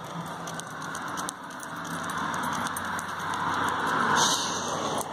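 Light metallic jingling, like keys or tags, over a steady hiss that swells and peaks about four seconds in.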